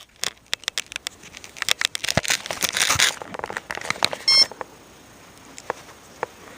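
Clicks and rustling of things being handled for the first few seconds, then a single short electronic beep about four seconds in.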